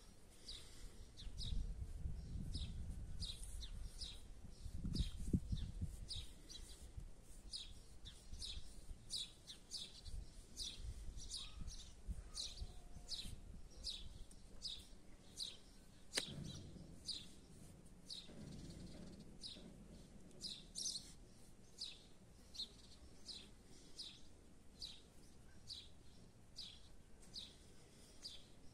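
A small bird chirping over and over, short high chirps that fall in pitch, about one and a half a second. Low rumble for the first few seconds, and a single sharp click about two-thirds of the way through.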